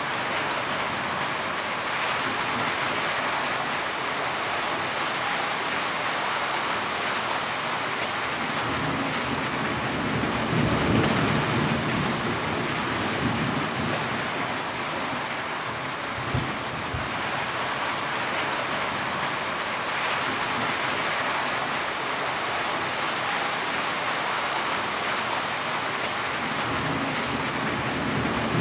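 Heavy rain falling steadily, with a few sharper drops, and low rumbles of thunder swelling about ten seconds in and again near the end.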